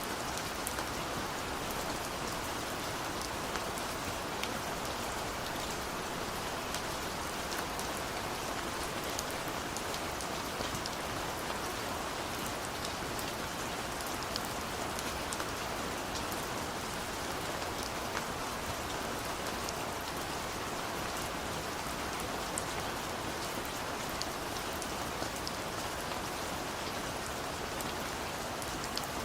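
Steady rain falling, a dense even patter of drops on surfaces with fine individual drip ticks.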